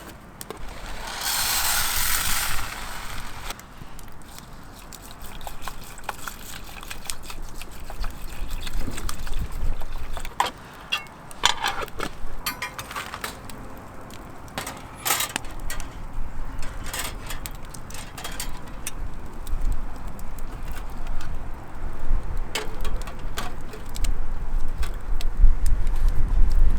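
Camping gear being handled: a burst of rustling about a second in, then scattered clicks, knocks and clatters, with a low wind rumble on the microphone near the end.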